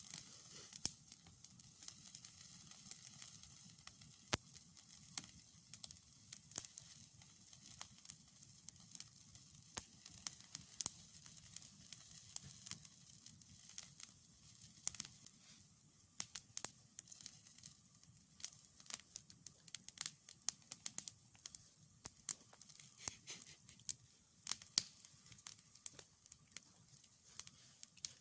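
Wood fire crackling, with frequent irregular sharp pops and snaps over a faint low rumble.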